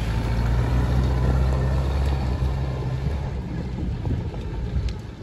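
Vintage car engine idling close by with a steady low note, fading away about three seconds in and leaving quieter outdoor background noise.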